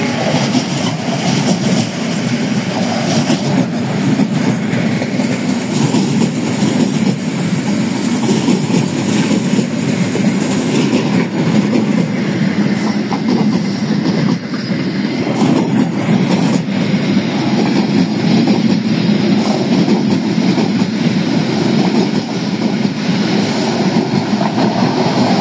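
Passenger coaches of the departing Gumarang train rolling past close by, a steady loud rumble with the clickety-clack of wheels running over the rail joints.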